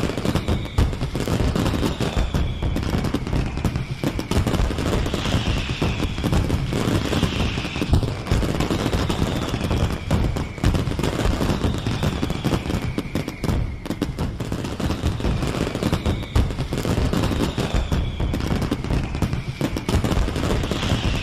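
Fireworks display: a continuous dense barrage of rapid bangs and crackling, with faint high whistles gliding down in pitch every couple of seconds.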